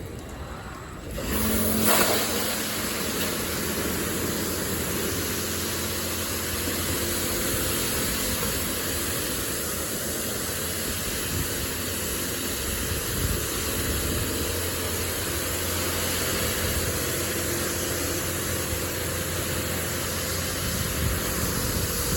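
Touchless automatic car wash running: a steady rushing hiss that starts about a second in and holds at an even level.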